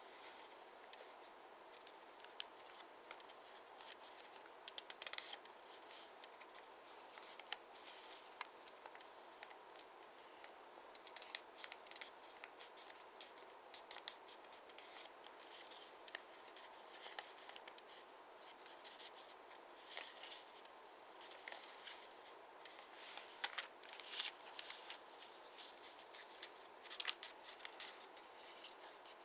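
A square of origami paper being handled and folded by hand: faint, scattered paper rustles and small crisp ticks, some in quick clusters.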